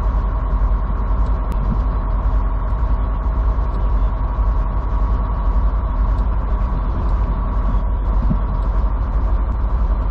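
Semi truck's engine heard from inside the cab while driving at a steady speed, a steady low drone with a constant whine near the middle of the range.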